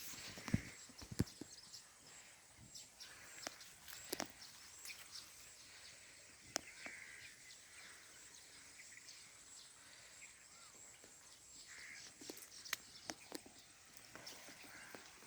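Faint rustling of dry sugarcane leaves, broken by scattered sharp crackles and clicks.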